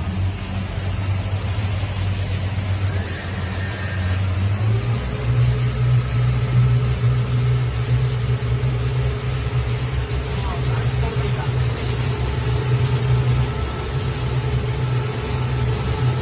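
A boat's engine running steadily with a low hum. About four and a half seconds in its pitch steps up and it gets louder, then holds at the higher speed.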